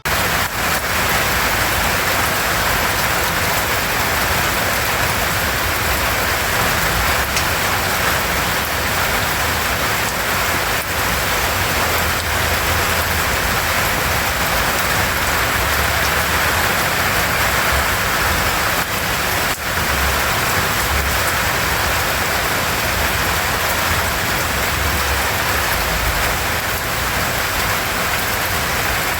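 Rain falling steadily, an even hiss that holds throughout.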